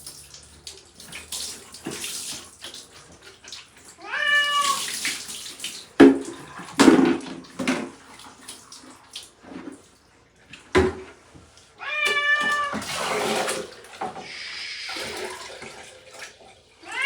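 Long-haired cat meowing in distress while being bathed: three long yowls, about four seconds in, about twelve seconds in and again at the end. Between them come water splashing and running and a few sharp knocks.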